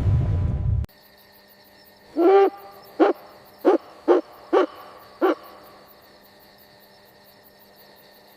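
An owl hooting: one longer hoot, then five short hoots spaced about half a second apart. Before it, a second of rushing noise cuts off suddenly, and a faint steady background with fast high ticking runs under the hoots.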